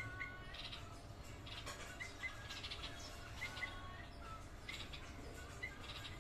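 Red-vented bulbul calling: short chirps, often in quick pairs, repeated every second or so, with brief buzzy notes higher up in between.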